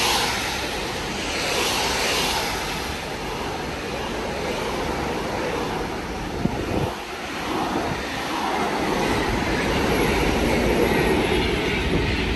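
Train passing through on the main line: a steady rushing rumble of wheels on rail, with one sharp click about six and a half seconds in and the rumble building toward the end.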